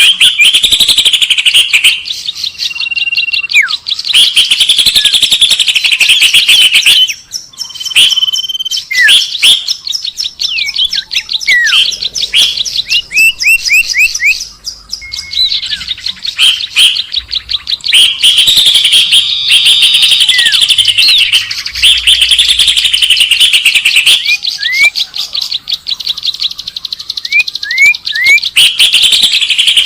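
A loud recording of mixed small birds chirping and twittering in rapid, dense runs, with scattered short up-swept and down-swept whistled notes in the quieter stretches. It is a bird-luring call recording.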